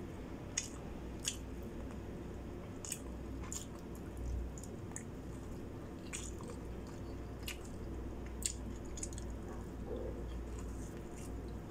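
Eating sounds: wet chewing and lip smacks, with a dozen or so short, sharp clicks scattered through, over a low steady hum.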